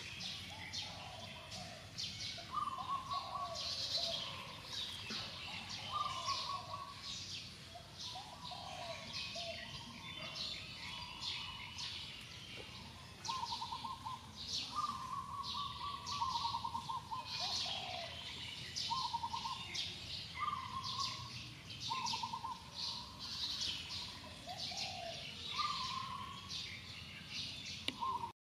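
Several birds chirping and calling: quick high chirps throughout, with short trilled notes and lower sliding calls every second or two.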